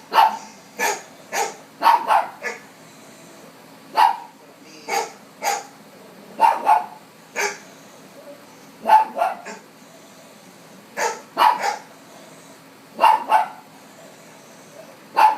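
A dog barking over and over in short volleys of one to three sharp barks, with gaps of a second or two between volleys, set off by dogs on the television.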